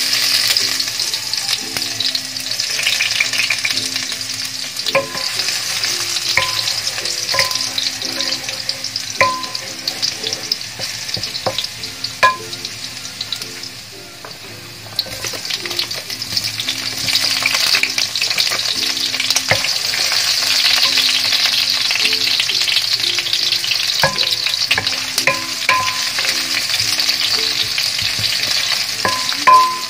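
Minced garlic sizzling in hot oil in a nonstick wok, starting suddenly as it hits the oil, with occasional sharp knocks of a wooden spatula against the pan. About halfway through the sizzle grows louder as sliced red onions go in and are stirred.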